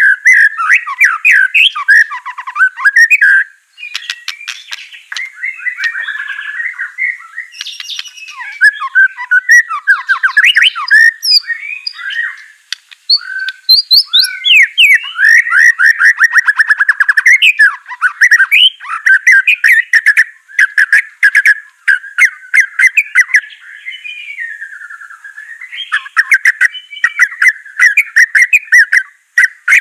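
White-rumped shama (murai batu) singing a long, varied song without pause: whistled phrases, fast trills and repeated notes, broken up by many sharp clicks.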